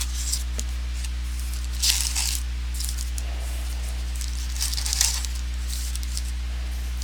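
Trading cards and pack wrappers being handled: short high swishing rustles about two seconds and five seconds in, over a steady low electrical hum.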